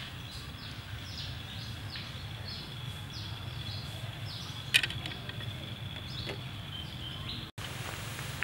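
Outdoor ambience of birds chirping in short, repeated falling calls over a steady high whine and a low rumble, with one sharp click about five seconds in. The sound drops out for an instant near the end.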